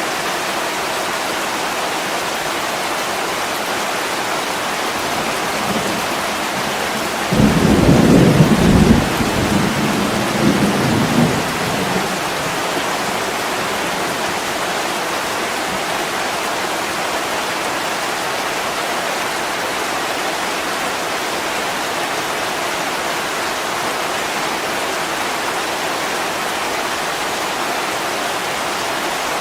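Steady heavy rain, with a roll of thunder about seven seconds in: a low rumble that peaks sharply and trails off over about five seconds.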